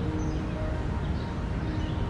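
Outdoor ambience: a steady low rumble with faint high bird chirps now and then. The last notes of background music linger near the start.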